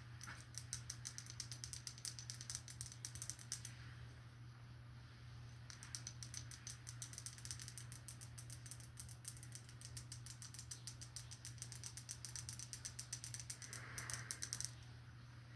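Rapid, crisp light clicks, several a second, in two runs with a pause of about two seconds near four seconds in, over a steady low hum.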